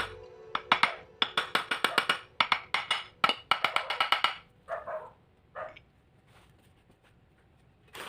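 Sharp clicks in quick runs of about eight a second, several bursts back to back, then a few scattered softer knocks near the end.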